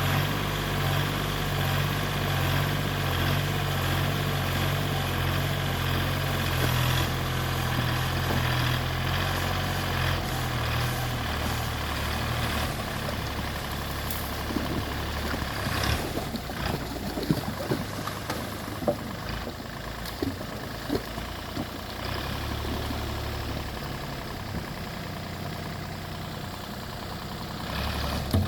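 Heavy diesel engine of a working farm machine running steadily, its low note changing about a third of the way in. A scatter of knocks and clanks sounds in the middle part.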